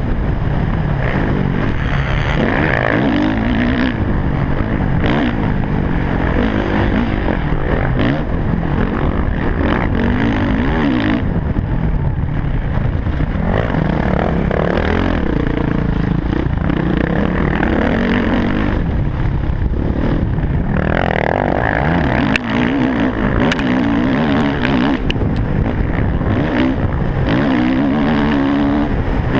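Motocross bike engine revving hard at racing pace, its pitch climbing and dropping again and again as the rider shifts and rolls the throttle, picked up by a helmet-mounted camera.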